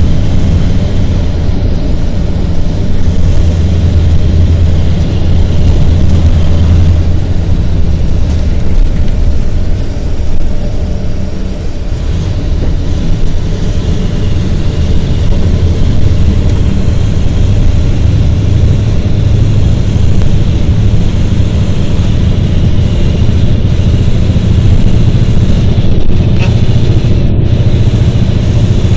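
Steady, loud vehicle engine running with low rumble, unchanged throughout.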